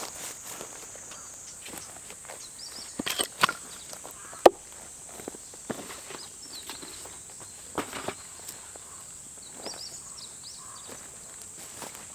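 Scattered footsteps and handling knocks outdoors, with a sharp click about four and a half seconds in, over a steady high-pitched drone and a few faint chirps.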